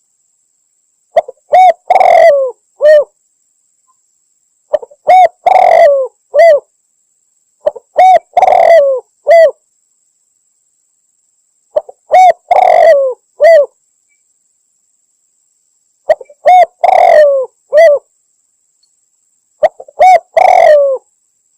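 Spotted dove cooing: six matching phrases of a few notes each, about one every four seconds, with dead silence between them. It is a recorded hunting lure call, labelled as a female calling males.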